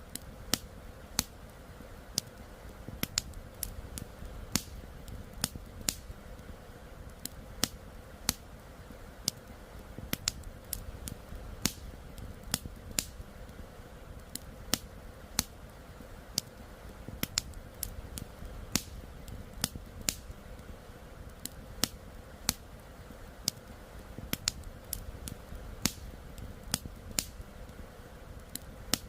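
Wood campfire crackling: sharp, irregular pops and snaps, a few each second, over a steady low rumble.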